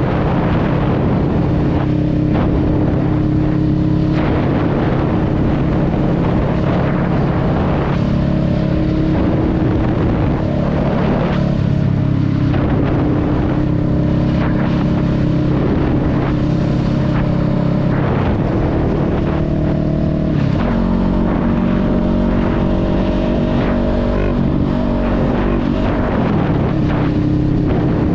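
Honda Rebel 500's 471 cc parallel-twin engine running while the motorcycle rides along, its pitch rising and falling with throttle and gear changes, with a few drops in pitch in the later part.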